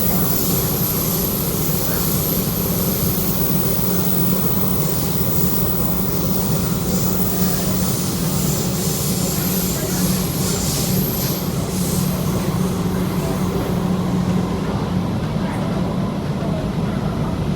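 Rotem EMU metro train running, heard from inside the car: a steady low rumble and hum with a hiss on top, the hiss fading near the end.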